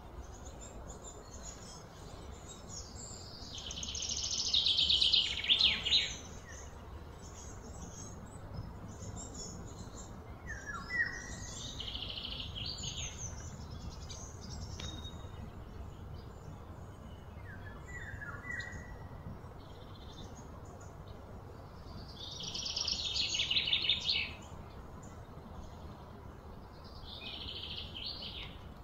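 Outdoor animal calls: high pulsed trills that swell and fade over about two seconds, four times, the loudest a few seconds in and another past the twenty-second mark. Short descending chirps come between the trills, over steady background noise.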